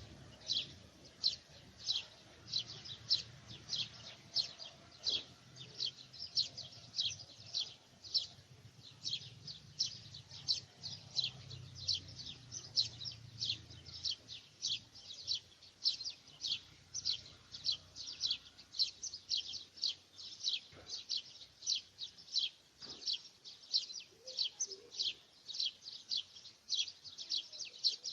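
A bird repeating a short, high chirp over and over, about two to three times a second, at an even pace.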